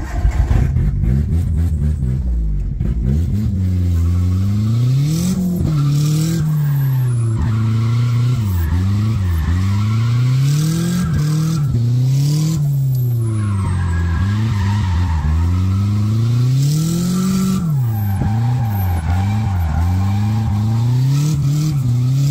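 Drift car's engine heard from inside the cabin, revving up and down over and over, its pitch rising and falling every two to three seconds, with tyres squealing as the car slides through the corners.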